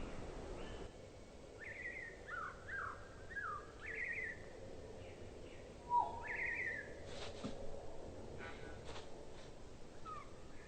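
Tūī calling: a run of short whistled notes, several sliding down in pitch, with a sharper, louder note about six seconds in and a few faint clicks after it.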